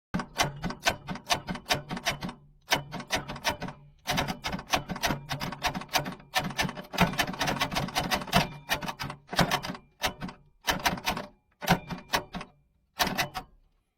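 Starter trying to crank a stuck old diesel engine: rapid clicking at about six a second over a low hum, in several bursts with short breaks. The engine does not turn over and only rocks back and forth, as if seized.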